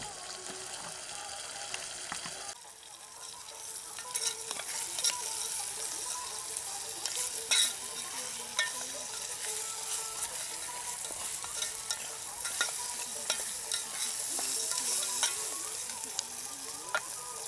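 Chicken pieces frying and sizzling in gravy in a metal pot, stirred with a plastic spatula that scrapes and knocks against the pot's sides in sharp strokes every second or so. The sizzling starts a couple of seconds in.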